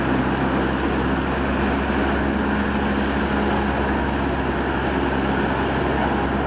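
Helicopter engine and rotor running steadily, with a constant low hum and no change in pitch or level.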